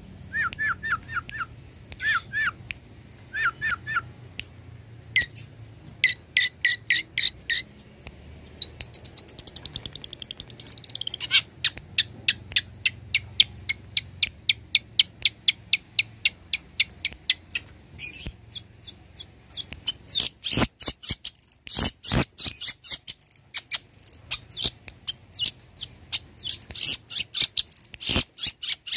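Long-tailed shrike (cendet) singing a varied song. It opens with short repeated whistled phrases, moves about eight seconds in to a long, fast run of sharp chattering notes, and closes with louder, harsher notes; the song is full of phrases mimicked from other birds.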